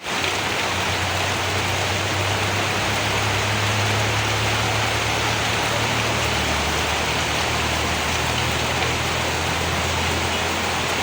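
Heavy rain falling steadily, an even dense hiss, over a steady low hum.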